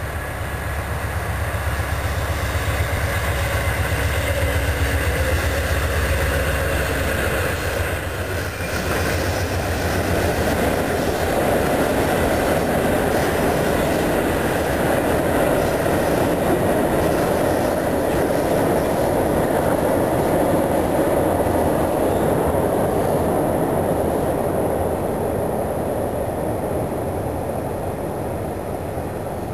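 Diesel-hauled passenger train crossing a steel viaduct. A low engine drone from the locomotive is heard for the first several seconds. After about nine seconds it gives way to a loud, sustained rumble and clatter of the coaches' wheels on the rails, which eases off near the end.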